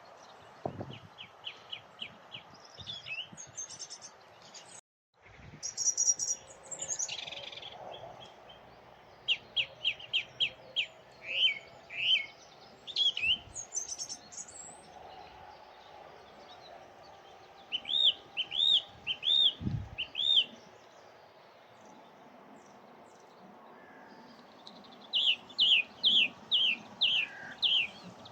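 Song thrush singing: loud, clear phrases of high notes, each note repeated several times in a row, with pauses between the phrases, over faint wind and traffic noise.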